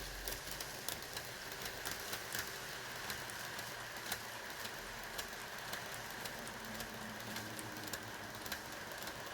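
N-gauge model train running on its track: a steady hiss of wheels and motor with irregular light clicks from the wheels over rail joints and points.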